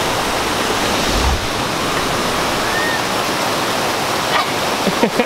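Waterfall: water falling in a steady, loud rush of noise. A brief low thump comes about a second in.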